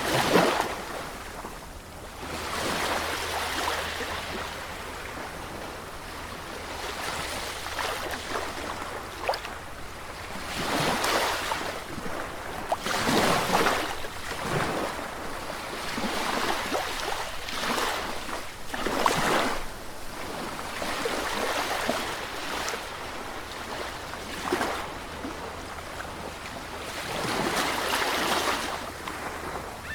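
Sea waves breaking on a shore: the surf swells into a louder rush every few seconds and fades back to a steady wash in between.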